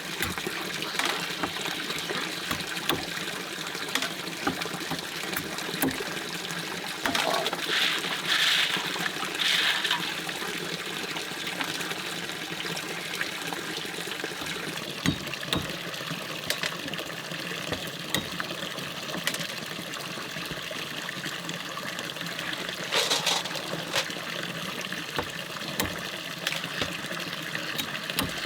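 Stream water trickling and flowing steadily, with a few brief louder water sounds about eight to ten seconds in and again near twenty-three seconds.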